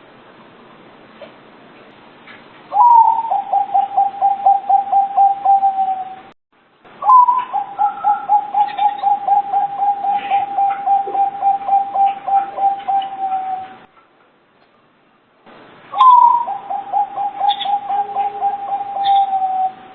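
Local zebra dove (perkutut) cooing: three phrases, each opening with a short higher note and running into a fast, even series of coos, about five a second. The middle phrase is the longest.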